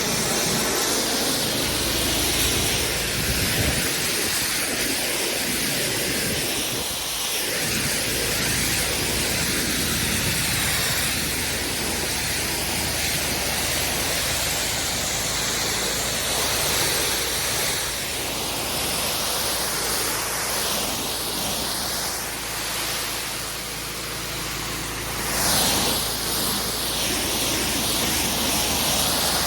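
Pressure washer spraying water onto block paving, a steady hissing rush with a brief louder surge about 25 seconds in.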